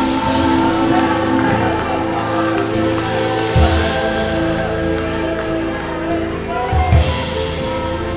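Live worship band music: sustained held chords with two heavy low drum hits, about three and a half and seven seconds in.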